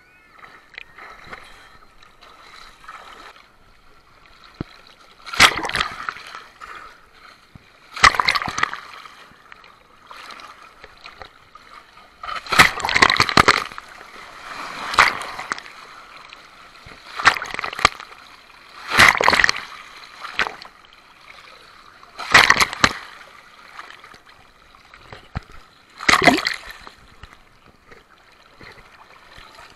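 Rough sea water splashing and sloshing in repeated surges, one every two to four seconds.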